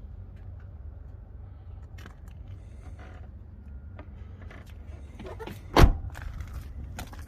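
Passenger-side door of a 1998 Mazda MPV being handled: a few light clicks, then one sharp clunk of the door latch about six seconds in, over a steady low rumble.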